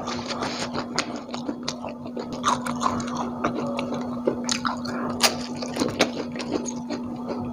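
Close-miked wet chewing and mouth smacks of a person eating crispy fried egg in chili sambal, with fingers squishing through the sambal. The clicks come in an irregular patter over a steady low hum.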